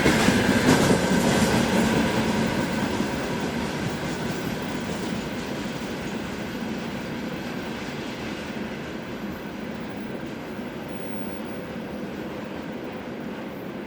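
Freight train wagons rolling past on the rails, clattering over the rail joints. The sound fades steadily as the train moves away.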